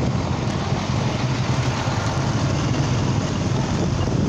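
Small motorcycle engine running steadily while riding, with a low even hum and road noise.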